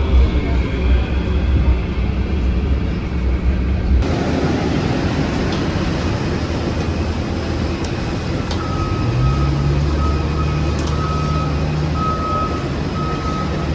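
Heavy vehicle engine running, its pitch rising and then holding, with a repeating electronic beeping alarm that starts a little past halfway and sounds about once a second. Before this, a steady low rumble breaks off abruptly about four seconds in.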